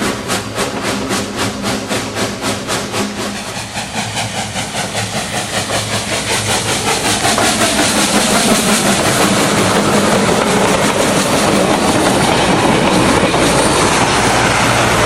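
Southern Railway 2-8-0 Consolidation steam locomotive No. 401 working, its exhaust chuffing at about four beats a second. After several seconds the beats merge into a steady rush of steam and rolling noise.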